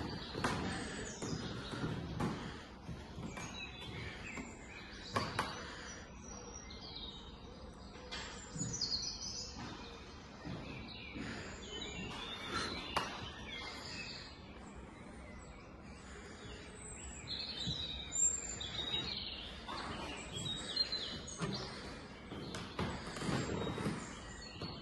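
Birds chirping and twittering in short high calls, scattered through a steady background of room noise with occasional light knocks.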